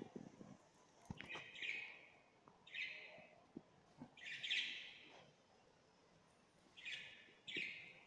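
Small caged birds chirping in short bursts, about six times, the loudest about halfway through.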